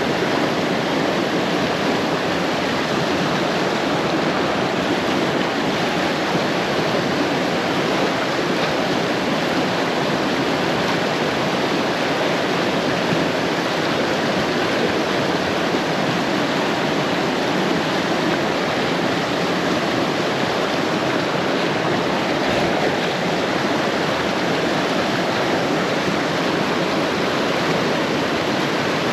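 Steady rush of a small river's current running over rocks close to the microphone.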